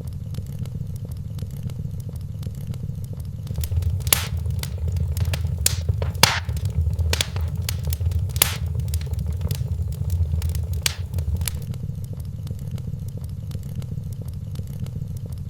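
Wood fire crackling in a fireplace: a steady low rumble of flames with scattered sharp pops, busiest and loudest in the middle stretch.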